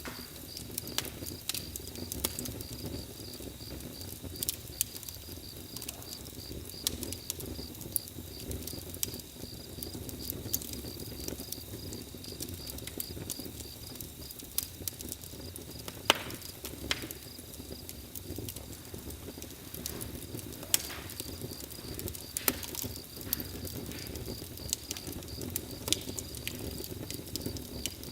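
Bonfire crackling, with irregular sharp pops and snaps over a steady low rumble. A continuous high cricket trill runs underneath.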